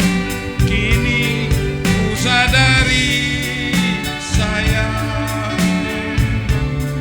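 Female Javanese singer (sinden) singing a wavering, ornamented vocal line over a gamelan-style band, with drum strokes keeping a steady beat of about three a second.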